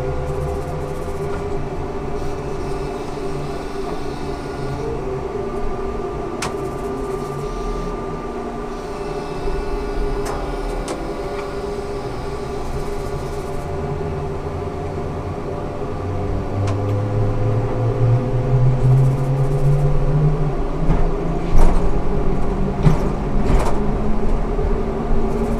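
Ikarus 280T GVM articulated trolleybus running, its electric drive giving a set of steady whining tones. About two-thirds of the way in, a low tone rises in pitch and the sound grows louder as the bus accelerates, with a few sharp knocks near the end.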